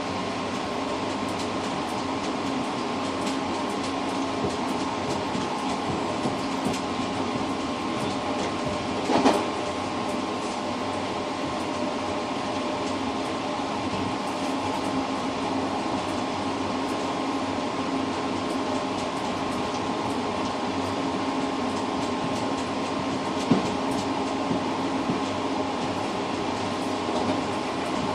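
Passenger train running, heard from inside the rear cab vestibule of the tail car: a steady rolling rumble with an even hum. There is a single louder knock about nine seconds in and a shorter one later.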